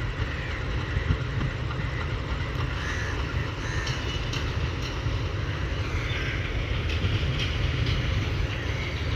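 Diesel train on the tracks: a steady low rumble with faint higher squeaks over it.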